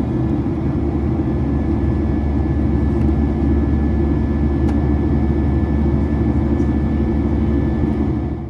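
Steady cabin drone of a Boeing 737-800 airliner: a constant low rumble of engines and airflow with a thin steady whine above it. It cuts off at the very end.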